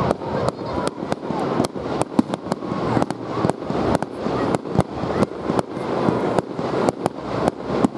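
Fireworks going off: a rapid, irregular run of sharp bangs and cracks, several a second, over a continuous rumble.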